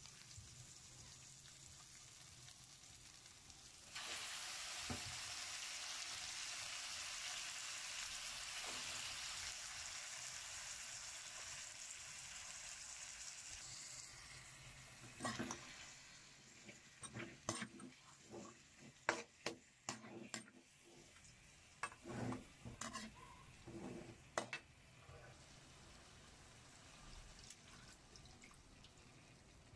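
Chicken pieces going into a hot wok of sautéing onions and garlic set off a loud sizzle about four seconds in, which eases off after about ten seconds. Then a metal ladle scrapes and knocks against the wok as the chicken is stirred.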